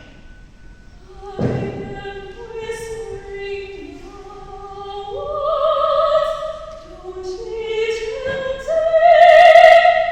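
A high classical-style voice singing long held notes with vibrato, climbing step by step to a loud sustained high note near the end, over sparse instrumental accompaniment with struck accents about a second and a half in and again near the end.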